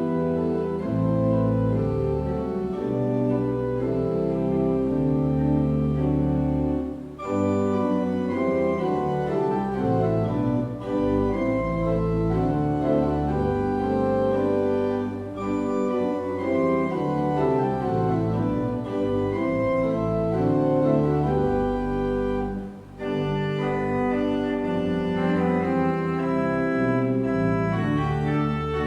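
Organ playing a slow piece of held chords, the notes changing every second or so, with brief pauses between phrases.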